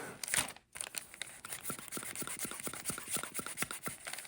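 Broad fountain-pen nib scratching across paper in quick, short strokes, a dense run of small scratches and ticks.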